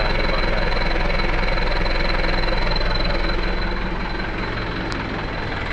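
Truck engine idling through a newly fitted HKS aftermarket exhaust, a steady rumble that eases slightly in level about four seconds in.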